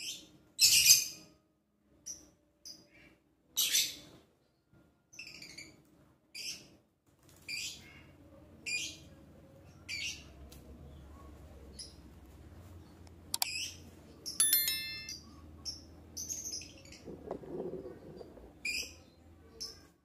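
Pet birds chirping: short, high chirps repeated every second or so, loudest about a second in. About two-thirds of the way through there is a sharp click and a brief run of steady high tones.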